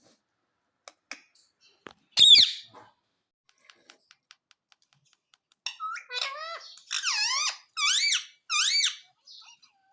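Pet parrot calling: one loud, harsh squawk about two seconds in, a few faint clicks, then from about halfway a run of five or so short squeaky calls that swoop up and down in pitch.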